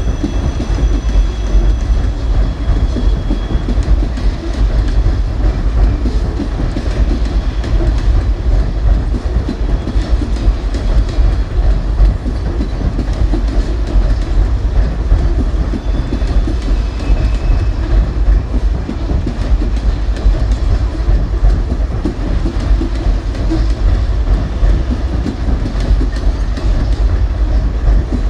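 Freight cars of a coal train rolling steadily past, a continuous heavy rumble with the clickety-clack of wheels over rail joints.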